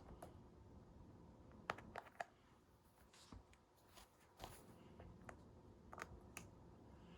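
Near-silent room with a few scattered faint clicks and taps.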